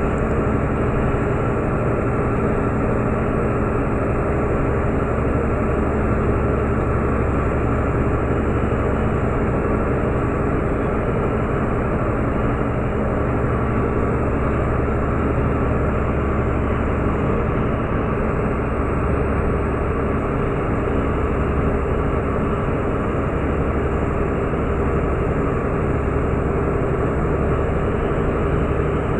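Meteor passenger hydrofoil under way, its twin diesel engines running in a loud, steady drone with a deep hum underneath.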